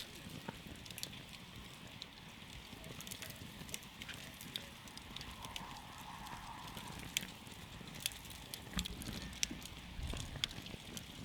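Campfire crackling: irregular sharp pops, several a second, over a steady low hiss and rumble of the flames, with a few louder pops in the second half.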